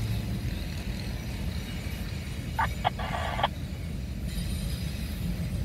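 Steady low rumble of a stopped freight train in a rail yard, with two short sharp sounds and a brief rasping burst about halfway through.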